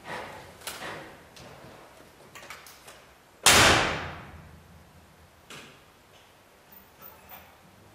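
A pickup truck door slamming shut about three and a half seconds in, the bang dying away over about a second. Light clicks and knocks come before and after it.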